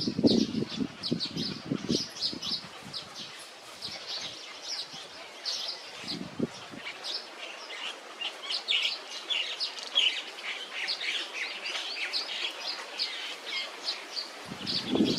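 Small songbirds chirping: a quick, continual series of short high chirps. Low rustling sounds in the first two seconds, briefly about six seconds in, and again near the end.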